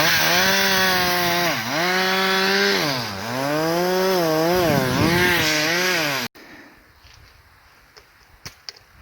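Two-stroke chainsaw running at high revs, cutting through a pine; its pitch drops twice as it bogs under load, then wavers up and down. The sound cuts off abruptly about six seconds in, leaving only faint background noise with a few light ticks.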